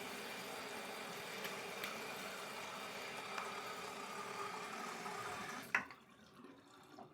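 Water running steadily from a tap, then shut off with a click near the end.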